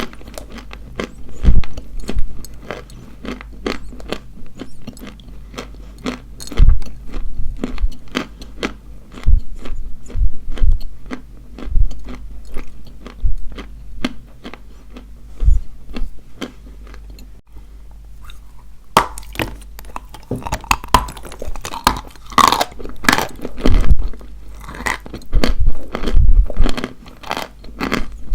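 Dry white chalk being bitten and chewed: a long run of sharp, irregular crunches, coming thicker and louder about two-thirds of the way through.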